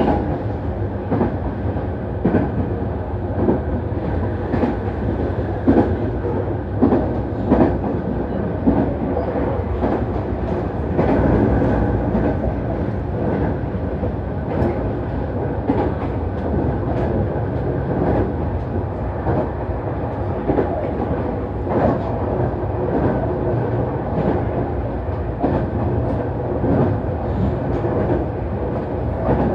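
Nankai Main Line express train running at speed, heard from on board: a steady rumble of wheels on rail, with frequent clicks as the wheels pass rail joints.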